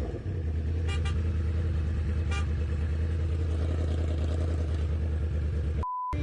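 A steady low engine-like hum with two short toots, about a second apart, early on. Near the end all sound cuts out for a brief single-pitch bleep.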